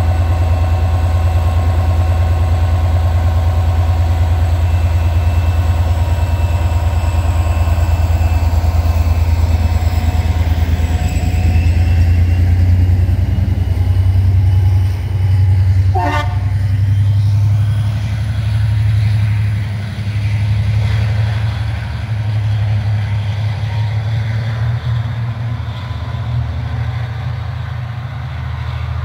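Train running past close by: a loud, steady low rumble with a high, slowly drifting whine, and one short horn toot a little past halfway.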